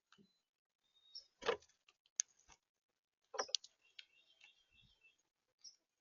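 Birds at a feeder: scattered sharp taps and knocks, with a few faint high chirps in between.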